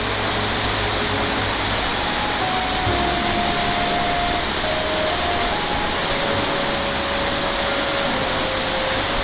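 Steady rushing noise with a slow melody of long held notes faintly over it, like soft background music.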